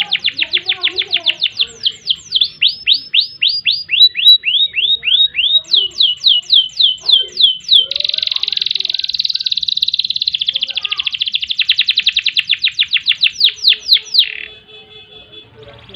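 Domestic canary singing a long, loud song made of rapid repeated-note trills, switching between rolls of different speeds, with a dense buzzy roll in the middle. The song stops about a second and a half before the end.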